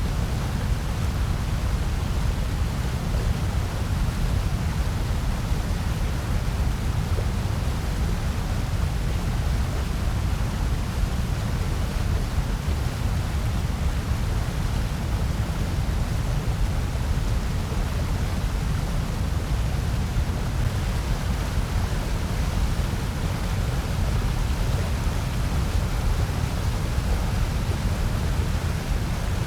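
Steady generated noise sold as white noise, an even hiss that does not change, heaviest in the low range with a fainter hiss above.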